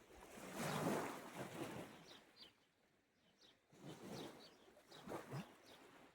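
Small sea waves washing onto the shore in two swells, the first loudest about a second in and a smaller one near the end, with short bird chirps over them.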